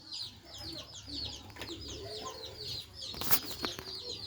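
Chicks peeping in a quick run of short, falling high-pitched cheeps, with a sharp knock about three seconds in.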